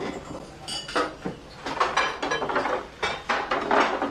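Plates and dishes clinking and knocking as they are set down and moved on a table, with one ringing clink about a second in.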